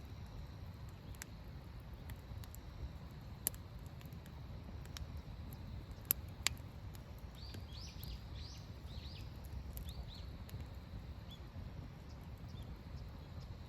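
Faint campsite ambience: a steady low rumble, three sharp snaps or clicks, and a short run of high chirps near the middle.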